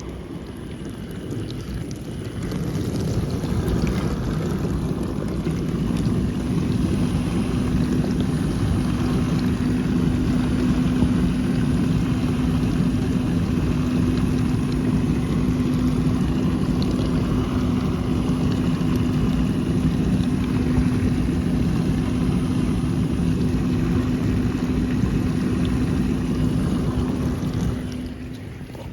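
Dishwasher running: water churning and spraying inside the tub, with a steady hum that sets in a few seconds in and stops shortly before the end.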